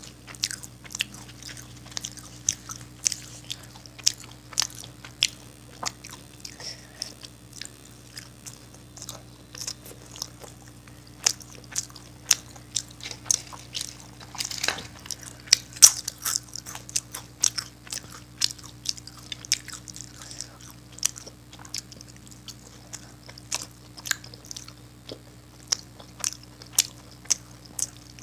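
Close-miked chewing and biting, with wet mouth clicks and crisp crunches, over a low steady hum. The crunching grows louder and denser about halfway through.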